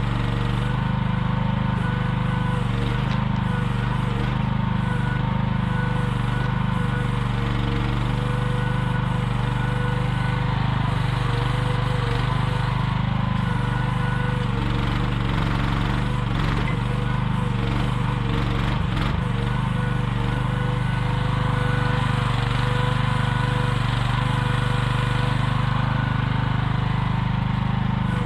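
AGT QH12R mini excavator's engine running steadily under digging work, with a steady whine over its low drone and a few light knocks about two-thirds of the way through.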